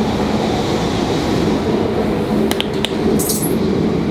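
Steady low rumble of a Class 745 electric multiple unit running, heard from inside the carriage. A couple of sharp clicks come about two and a half seconds in, followed by a short hiss.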